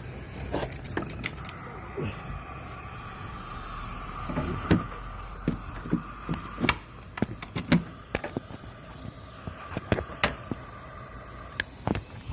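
Vehicle engine running steadily, with sharp irregular clicks and knocks over the low rumble: the noise heard while the engine turns.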